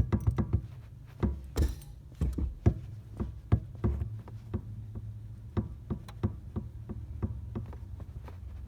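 Car gas pedal pumped with the engine off: a quick run of knocks and taps from the pedal and shoe, several a second at first, thinning to scattered taps after about four seconds. A short rustling rush comes about a second and a half in.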